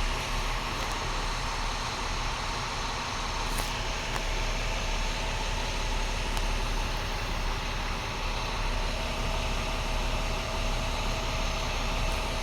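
International MaxxForce DT inline-six diesel engine idling steadily.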